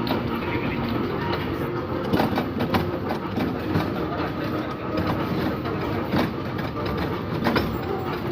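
A children's ride-on train running along, a steady rumble with irregular clicks and clacks.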